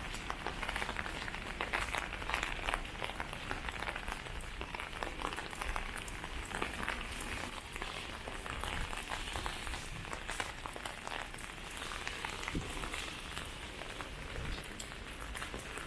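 Steady rain with dense patter of raindrops.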